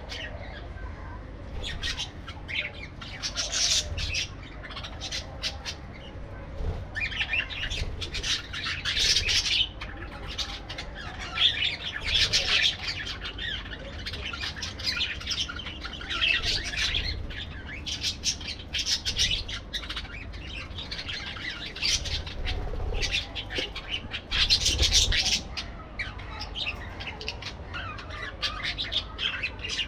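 A group of parakeets chattering and squawking in bursts of rapid, high-pitched calls, over a steady low rumble.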